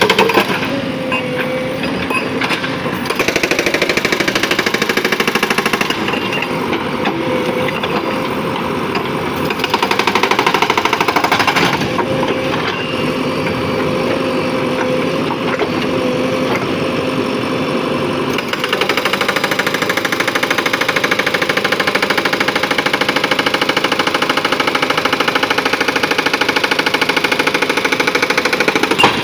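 JCB 3DX backhoe loader's hydraulic rock breaker hammering with rapid repeated blows while the diesel engine runs under load; the sound shifts several times.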